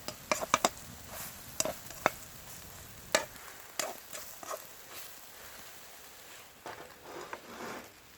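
Egg and green onion pancake sizzling in a frying pan over a wood fire, with a series of sharp clicks and taps, most of them in the first half. The pancake is done.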